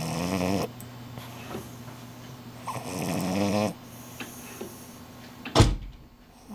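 French bulldog snoring in its sleep: one snore trailing off at the start and another long snore about three seconds in, with a sharp thump near the end.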